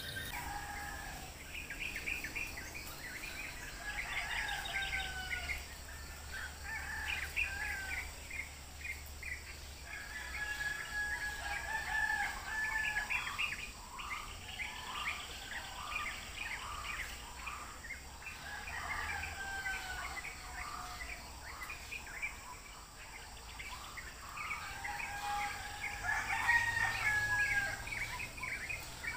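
Birds calling repeatedly, one call after another, in sliding whistled phrases and quick trills.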